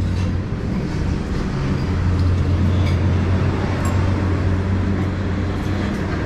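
Steady low rumble of vehicle noise, with a continuous low hum and no clear single events.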